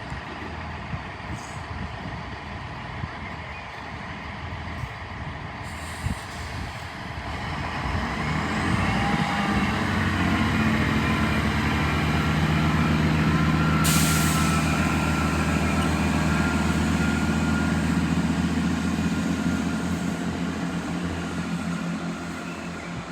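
Diesel train engines running close by: a steady low engine note that grows loud from about 8 s in, then slowly fades. A short sharp hiss of air comes about 14 s in.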